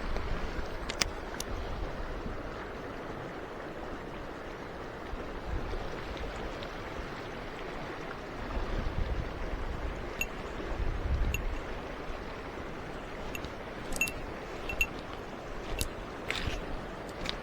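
Mountain stream water rushing steadily, with a few short sharp clicks scattered through, mostly near the end.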